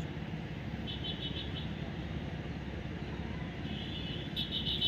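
Two short trills of rapid, evenly spaced high-pitched chirps, one about a second in and a longer one near the end, over a steady low rumble.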